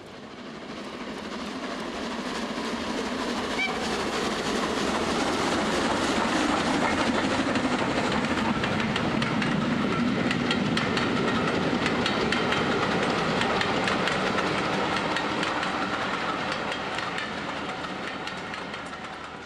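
A train running on track, with a dense clickety-clack of wheels over the rails. It fades in over the first few seconds and fades out near the end.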